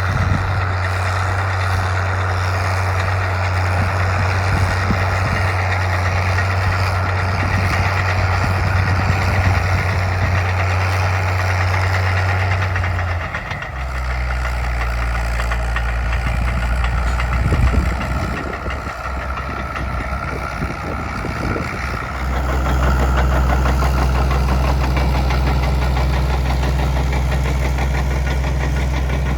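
Crawler tractor engine running steadily, dropping to a lower pitch about halfway through, then settling into a steady lower, louder note near the end.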